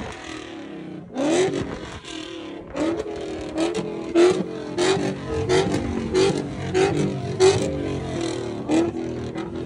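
Drift car engine revving, with a rising rev about a second in and a steady run of sharp cracks.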